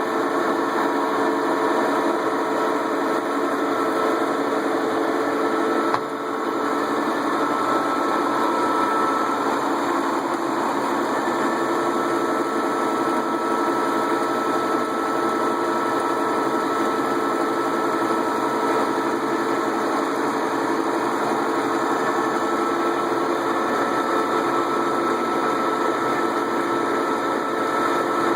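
Metal lathe running steadily while turning a steel part: a constant machine drone with several steady tones, and a single brief click about six seconds in.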